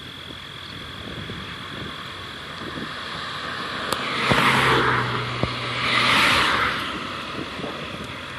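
A steady, high insect trill, with two swells of rushing noise, each about a second long, about four and six seconds in.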